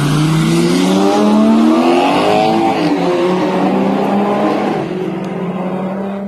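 Sports car engine revving hard, its pitch swinging up and down over a strong hiss, as in a car being driven hard; it cuts off suddenly at the end.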